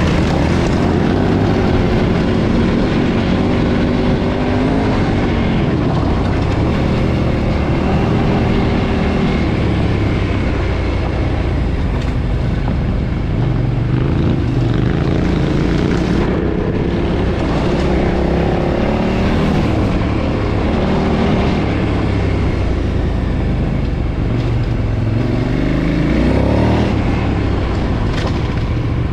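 KTM 990's 999 cc V-twin running through its stock exhaust while being ridden, the revs rising and falling several times as the throttle is opened and closed.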